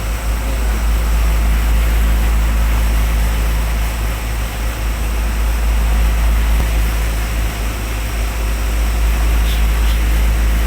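Oxygen plant machinery running steadily: a strong deep hum with a few steady low tones over an even hiss.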